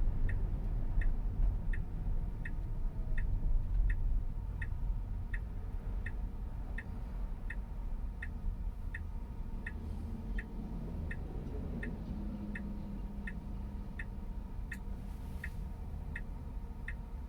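Car turn signal ticking steadily, about three ticks a second, over low road rumble inside the cabin.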